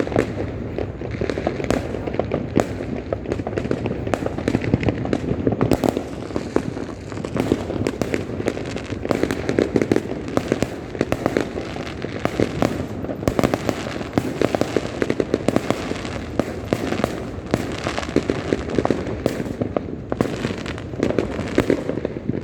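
New Year fireworks and firecrackers going off across a city: a dense, continuous stream of cracks and pops over a steady rumble of many distant explosions.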